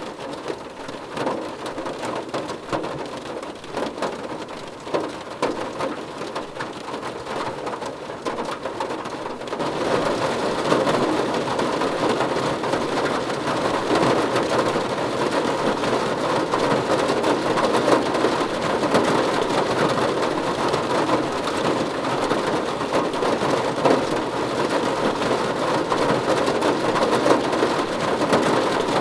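Rain falling: a patter of separate drops at first, then about a third of the way in it switches suddenly to heavier, denser, louder rain that holds steady.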